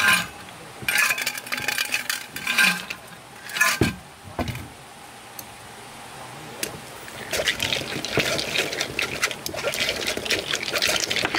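Liquid being poured in several short splashing pours, then from about seven seconds in a steady crackling hiss.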